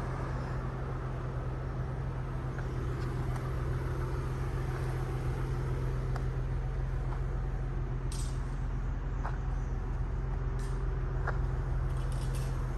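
Steady low mechanical hum over background noise, with a few faint ticks and brief high hisses.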